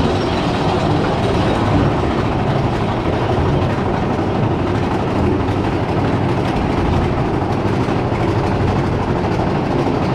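Big Thunder Mountain Railroad's mine-train roller coaster running along its track: a steady, loud rumble of the cars' wheels on the rails.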